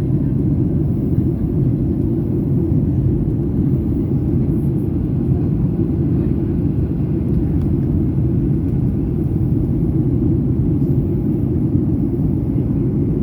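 Steady low cabin rumble inside a Boeing 737-800 during its descent, from the CFM56-7B engines and the airflow over the fuselage, holding an even level throughout.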